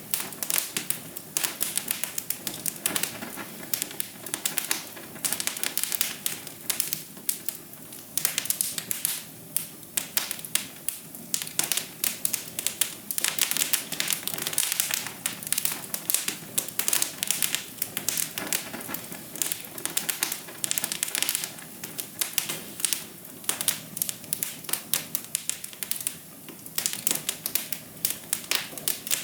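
Wood fire crackling in a fireplace: a dense, irregular stream of small pops and snaps over a steady low hiss of flames.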